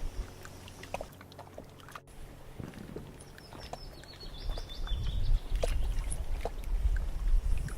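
Forest ambience: a bird gives a short high call about halfway through, over low rumbling surges and scattered small clicks.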